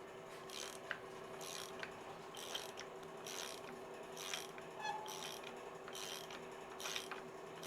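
Hand ratchet clicking through return strokes, about one a second, on a tight cylinder head bolt of an Allis-Chalmers C engine. The bolt turns hard, which is put down to dirt in the threads.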